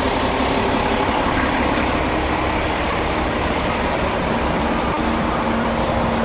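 Heavy diesel engine running steadily, a continuous low rumble with a faint steady hum.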